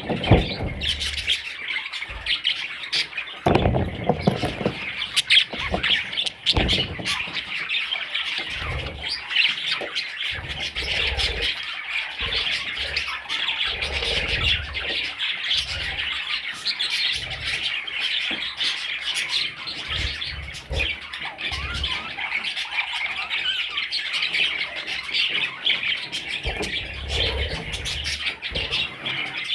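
A group of parrot chicks calling continuously in a dense, high-pitched chatter of squawks and chirps, with occasional low thumps.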